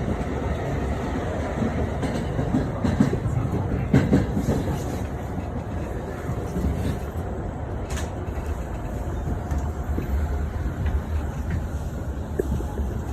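Chuo-Sobu Line commuter train running, heard from inside the carriage: a steady low rumble of wheels on track with a few scattered clicks and knocks.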